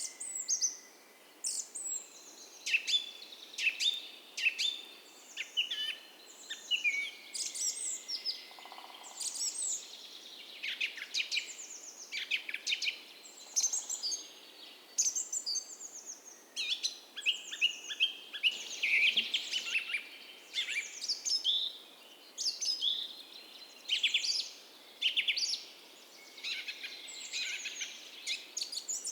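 A dawn chorus of many songbirds, with quick chirps and downward-sweeping notes overlapping without a break, over the faint steady sound of a creek.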